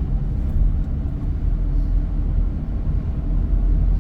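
Steady low rumble of a car driving, heard from inside the cabin: road and engine noise with no change in pace.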